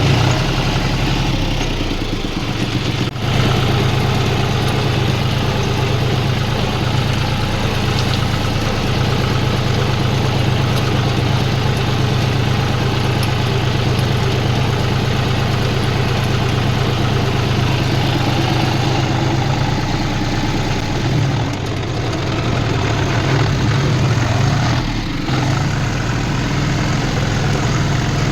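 Tractor's diesel engine running steadily at an even speed. Its sound briefly dips about three seconds in and again near the end.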